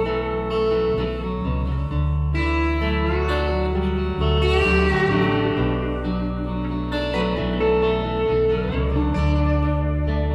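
A rock band playing a guitar-led instrumental passage between sung verses, over a steady bass. Several guitar notes slide upward in pitch, about three seconds in and again near the end.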